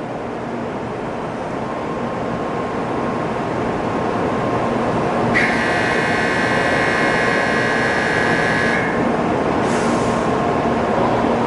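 Shinkansen train running, its noise slowly growing louder. About five seconds in, a high steady tone with overtones sounds for about three seconds, and a short hiss follows near the end.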